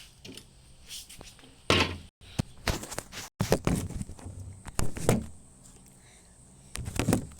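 Camera handling noise: irregular knocks, clicks and rubbing as the camera is moved and set in place, with two brief dropouts in the audio.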